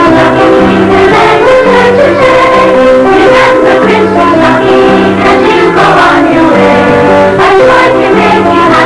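A children's school choir singing a Christmas song with instrumental accompaniment.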